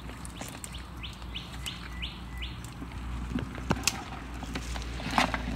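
A bird calling a quick series of about six short rising notes, over scattered faint clicks.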